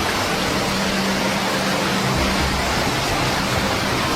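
Steady rushing noise of a heavy rainstorm and floodwater, with a low steady hum underneath.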